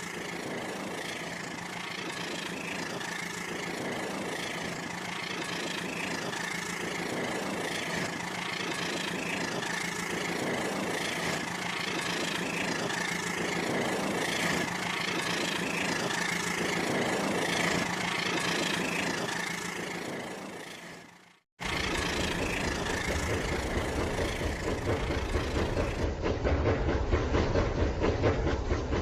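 Battery-powered toy train's electric motor running with a steady hum and a soft pulse a little under every two seconds, as it laps the track. About three-quarters of the way through the sound cuts off abruptly and gives way to a louder, lower rumbling train sound.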